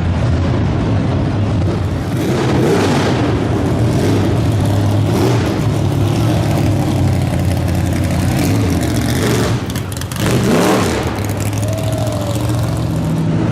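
Car engines rumbling at low speed with occasional revs as they drive out; one sharp rev climbs in pitch about ten and a half seconds in.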